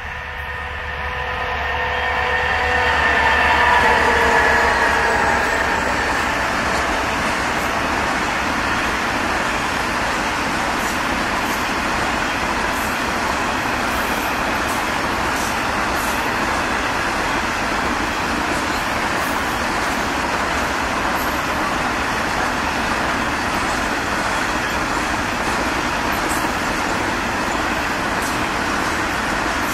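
Two diesel-electric locomotives of a broad gauge grain train approaching and passing, their engine note loudest about four seconds in. This is followed by the steady rumble of hopper wagons rolling by.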